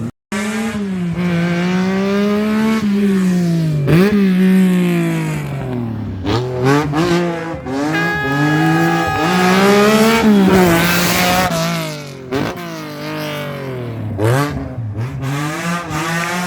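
Rally car engine revving hard, its pitch climbing and then dropping again and again as the driver lifts and changes gear. There is a brief tyre squeal about halfway through.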